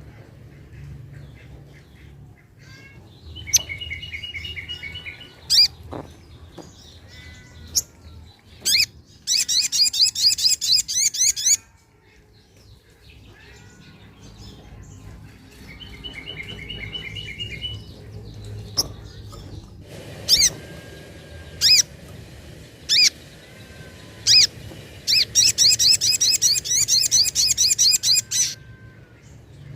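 Sogok ontong (little spiderhunter) calling and singing: sharp single call notes, short runs of steady repeated notes, and two bouts of fast high trills, about 9 s in and again near the end.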